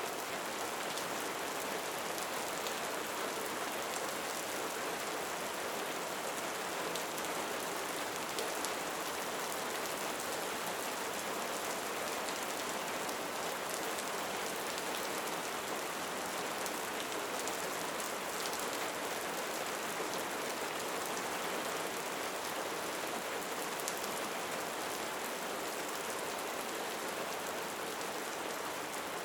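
Steady rain falling, an even hiss with fine patter that does not change.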